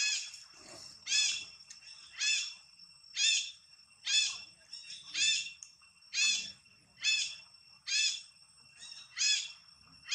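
A bird calling repeatedly, one short high note about once a second, over a steady high-pitched hum.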